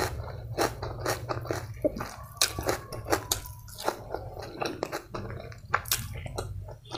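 Close-miked chewing of biryani, with wet mouth smacks and clicks coming irregularly over a low steady hum.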